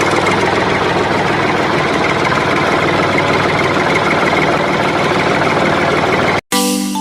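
An engine running steadily with a fast, rough, knocking chatter. It cuts off abruptly near the end, and chiming music starts right after.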